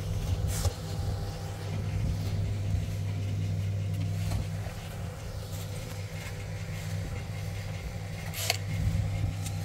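A steady low motor hum, with two sharp clicks, one near the start and one near the end.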